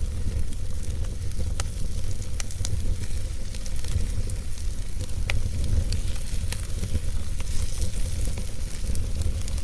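Wood fire in a fireplace crackling, with scattered sharp pops over a steady low rumble and hiss of the flames.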